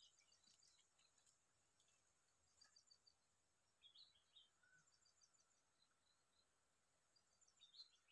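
Near silence, with faint short bird chirps in brief clusters: at the start, about four seconds in, and again near the end.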